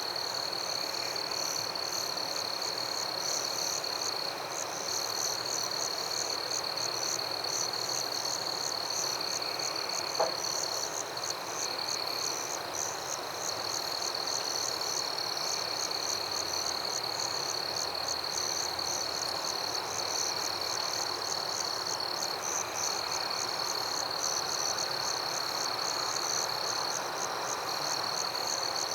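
Jungle ambience: a steady, high, continuous insect drone under dense, fast pulsing calls of frogs and insects, with a soft even hiss. One sharp click about ten seconds in.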